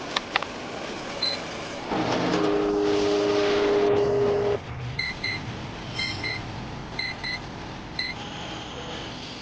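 A machine hum with a steady drone runs for about two and a half seconds and stops abruptly. About a second later an electronic beeper starts sounding short double beeps, roughly one pair a second.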